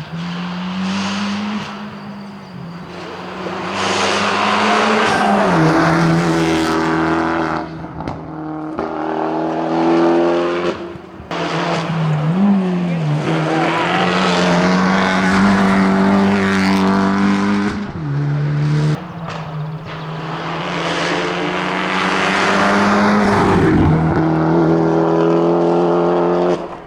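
Fiat Punto Evo race car engine running hard up a hill road at high revs, its note held fairly steady and breaking several times as it changes gear.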